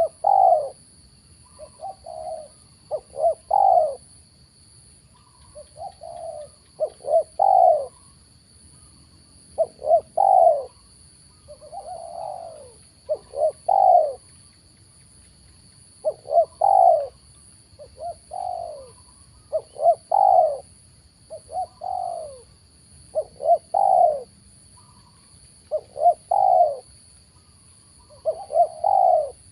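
Spotted dove (tekukur) cooing over and over, in short phrases of a few notes every second or two, each note falling in pitch.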